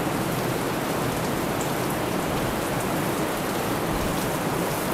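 Steady, even hiss like falling rain, with no change in level or pitch.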